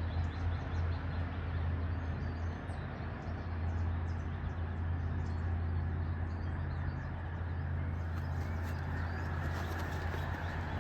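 Small birds chirping faintly over a steady low rumble and hum.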